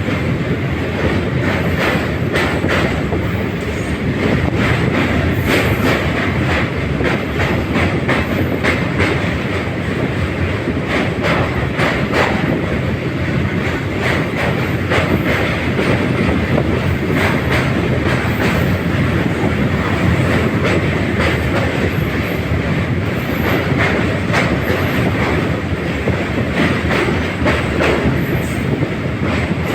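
Train running on rails: a steady loud rumble of wheels, with frequent irregular clacks as they pass over rail joints.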